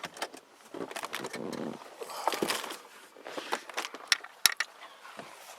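Irregular clicks, knocks and rustling of belongings being handled and moved about in a car, with one sharp click about four and a half seconds in.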